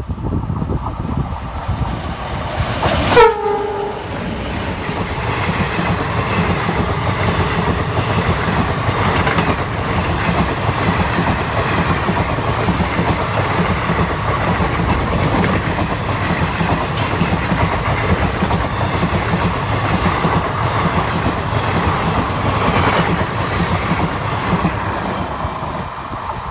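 Twin ALCO diesel locomotives sound their horn as they pass at speed, the pitch falling sharply about three seconds in. The coaches then rush past with a steady rolling rumble and a rhythmic clickety-clack of wheels on the rails, which fades near the end as the train draws away.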